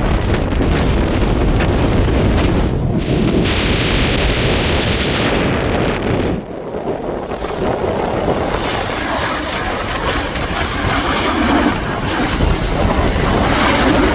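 Strong wind buffeting the microphone: a loud, steady rumble and hiss that eases briefly about six seconds in.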